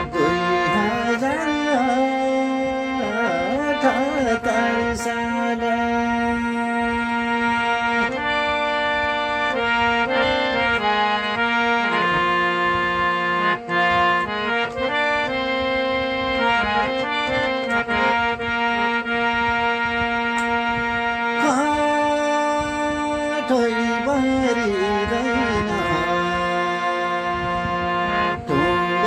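Instrumental passage of a Nepali thadi bhaka folk song: a reed instrument plays held notes and melody phrases over steady hand-drum strokes.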